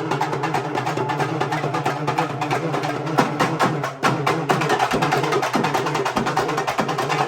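Urumi melam, a Tamil folk drum ensemble, playing fast and continuously: dense rapid drum strokes over a steady low humming tone. The playing dips briefly about four seconds in, then carries straight on.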